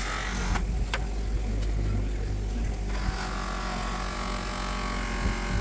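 A power tool's motor running with a steady low hum, with a loud hissing noise over it that breaks off about half a second in and returns about three seconds in.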